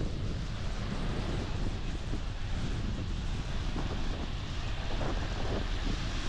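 Strong wind buffeting the microphone with a steady low rumble, over the wash of ocean surf.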